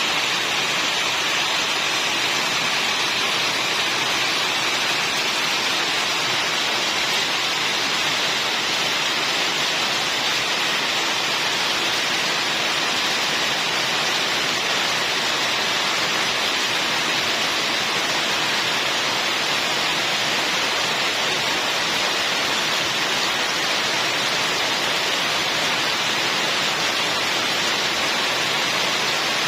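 Rain falling steadily, an even hiss with no breaks or distinct drops standing out.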